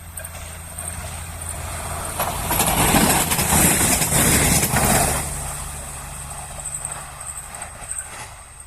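A train passing close by: a rush of wheel and rail noise swells to its loudest about three to five seconds in and then fades, with clacks of the wheels over rail joints, over a steady low hum.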